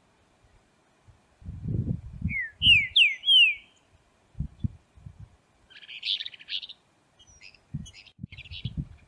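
Green-winged saltator singing: a quick phrase of four loud, clear swooping whistles about two seconds in, then shorter, rougher notes around six seconds in and again near the end. Low thumps and rumbles come and go between the notes.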